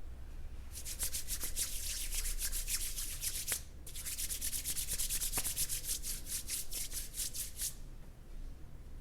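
Hands rubbing and stroking through hair, likely working in hair serum, in quick even strokes of about five a second, with a short break a little before the middle.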